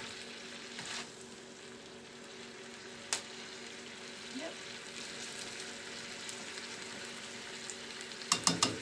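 Diced chicken sizzling in a skillet on the stove as it is stirred and cut up with a spatula and fork, with scattered clicks of the utensils against the pan. Near the end comes a quick run of four sharp taps on the pan, the loudest sound here.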